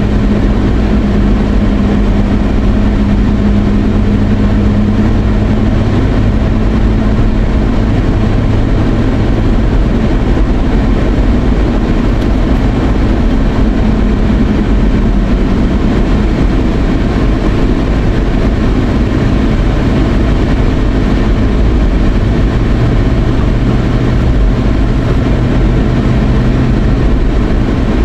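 Car running at road speed heard from inside the cabin: a steady low engine hum under continuous tyre and road noise, the hum shifting slightly in pitch now and then.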